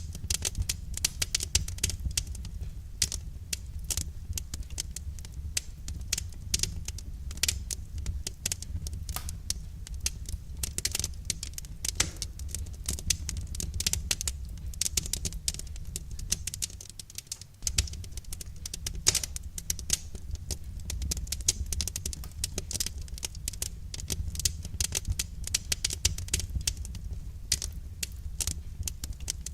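Wood fire crackling: a dense, irregular run of sharp pops and snaps over a steady low rumble, easing briefly a little past halfway.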